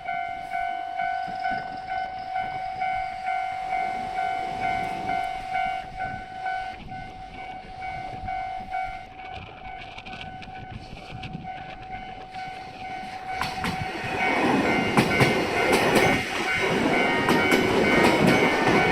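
A Japanese level-crossing warning alarm rings steadily. About two-thirds of the way in, a JR Hokkaido Sassho Line train passes over the crossing, louder, with its wheels clattering over the rail joints.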